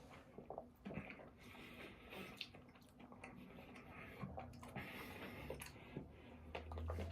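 Close-up chewing and wet mouth sounds while eating, with scattered small clicks and smacks. A low hum comes in near the end.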